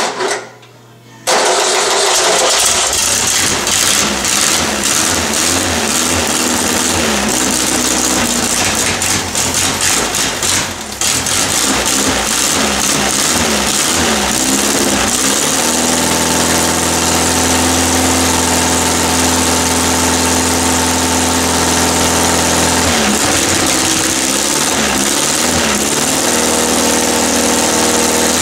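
VW 1600 dual-port air-cooled flat-four on an engine run stand catching about a second in and running unevenly, its speed rising and falling, then holding steady for several seconds past the middle. It is being kept alive with shots of starting ether while the carburettor's accelerator pump delivers no fuel.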